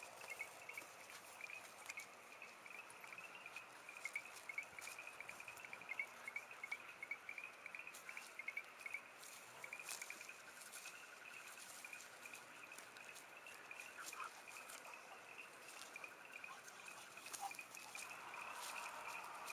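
Faint outdoor ambience of animal calls: a high-pitched chirp repeating several times a second without a break, with scattered sharp ticks over it.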